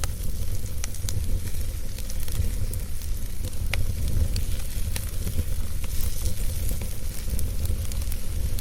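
Wood fire burning, with a steady low rumble and irregular sharp crackles and pops from the burning wood.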